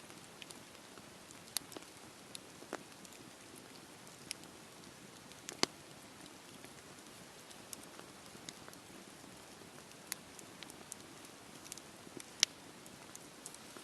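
Wood fire crackling in a fireplace: a low steady hiss with scattered sharp pops and snaps, two of them much louder, one about five and a half seconds in and one near the end.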